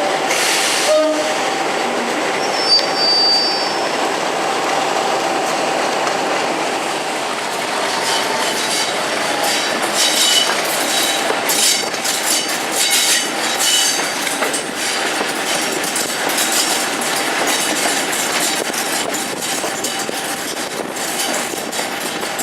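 Diesel train running on the line: a steady rumble carrying an even tone, with brief high wheel squeal about three seconds in. From about eight seconds in come rapid clicks of the wheels over rail joints, mixed with short high squeals.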